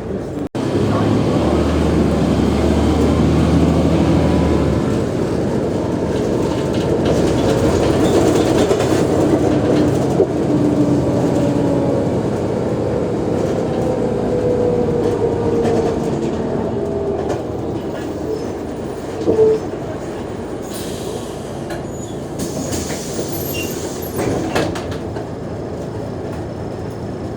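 Mercedes-Benz O345G articulated bus driving, its engine and driveline running with a steady rumble and a whine that slowly falls in pitch midway. The sound cuts out for an instant just after the start, and there are a couple of short knocks in the second half.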